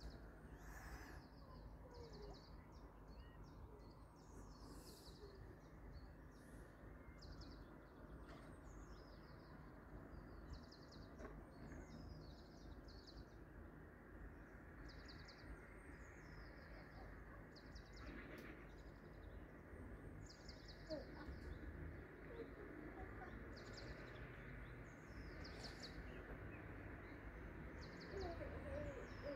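Faint birds chirping in short, high twittering phrases, repeated throughout, over a low steady background rumble.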